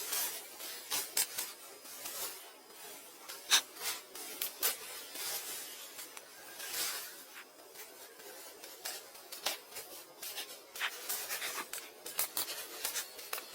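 Irregular rubbing and scraping, broken by many sharp clicks and light taps, the loudest about three and a half seconds in.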